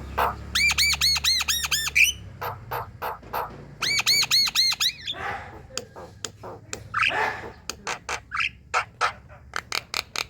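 Javan myna in full chattering song: a fast run of sharp chips and clicks, broken by two bursts of quick, repeated, arched whistled notes (one near the start and one about four seconds in) and by harsh rasping squawks around the middle.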